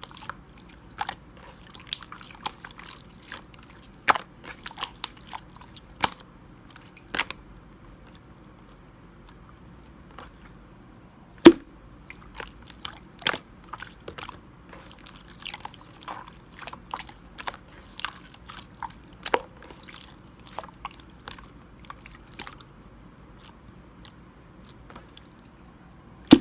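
Clear slime worked by hand, making irregular wet, sticky clicks and small pops, with one much sharper click about eleven seconds in.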